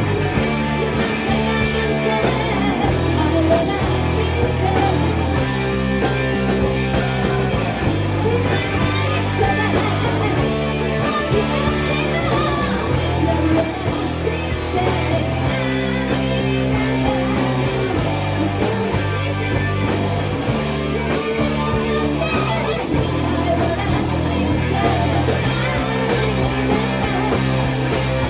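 Hard rock band playing with electric guitars, bass and drums, and a singer. The bass holds long notes that change every couple of seconds.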